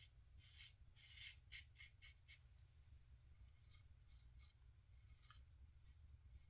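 Faint, short scratchy strokes of a 1958 Gillette TV Special double-edge safety razor cutting stubble: a quick run of strokes about a second in, and a few more in the second half.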